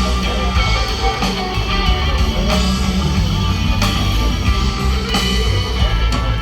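Rock band playing live with electric guitar to the fore and a steady beat, without singing.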